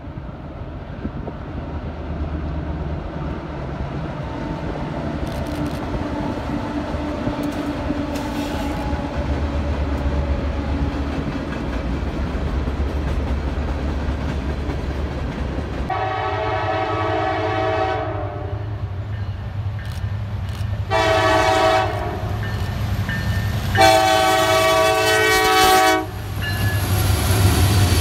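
Freight train rolling across a bridge, the steady rumble of the cars growing louder. About 16 s in, a locomotive air horn sounds a long blast, a short one and another long one. In the last couple of seconds the sound changes to a locomotive passing close by.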